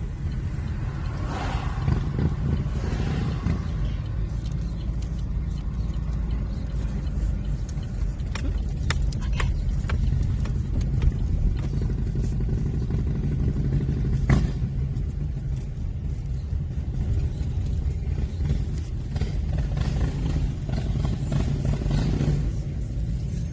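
Car driving, with a steady low rumble of engine and road noise heard from inside the cabin and a few sharp clicks and knocks, the loudest about two-thirds of the way through.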